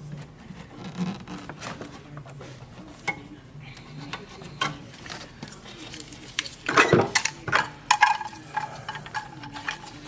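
A series of light metallic clinks and knocks at irregular intervals, with a louder clatter about seven seconds in.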